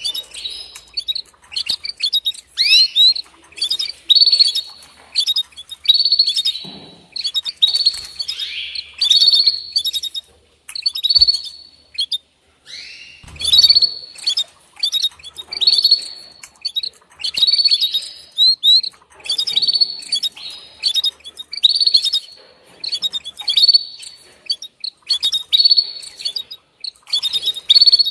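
Female canary giving its mating call: bursts of short, high chirps, some with quick upward sweeps, repeated about every two seconds. This is the call a hen canary uses to summon a male.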